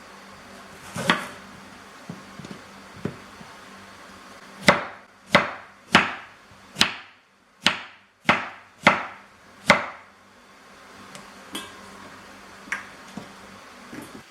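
A run of eight sharp, evenly spaced knocks, roughly one every two-thirds of a second, each with a short ringing tail, like hammer blows. Single lighter knocks come before and after the run.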